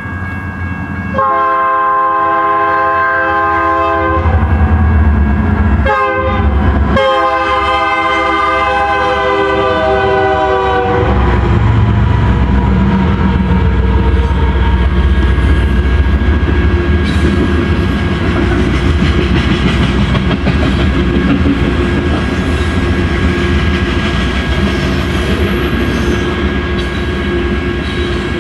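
BNSF coal train's locomotive horn sounding at a grade crossing: a long blast, two short blasts, then a long blast. The train then rumbles and clatters past steadily.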